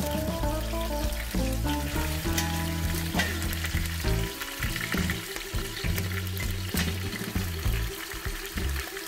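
Lamb shanks searing in hot oil in a stainless steel pot, a steady sizzle with scattered sharp pops, over background music.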